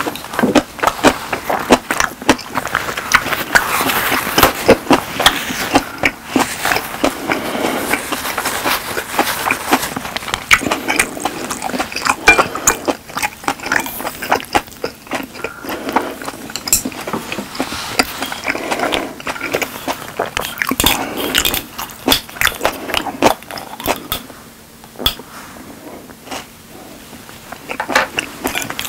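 Close-miked chewing of steak: a mouth chewing meat, with a constant run of small wet clicks and smacks. It eases off for a few seconds near the end.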